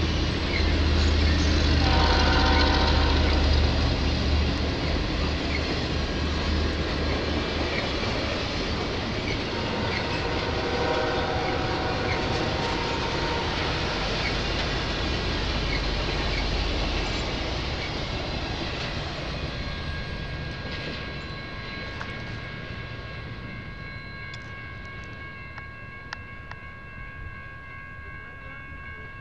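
Passenger cars of a train rolling past on the rails, the rolling noise fading away as the last car moves off. A train horn sounds in the distance about two seconds in and again around ten seconds in.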